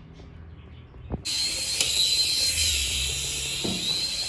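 Toy plane's small electric propeller motor switched on about a second in, then running with a steady high-pitched whir and buzz. Just before it starts there is a short low thump from handling the toy.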